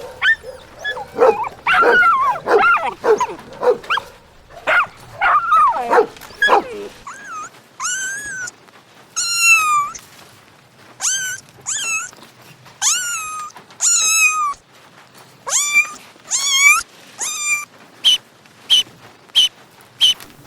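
A dog barking and yipping, then giving a long series of short, high-pitched whining yelps. Near the end there is a quick run of short, high ticks.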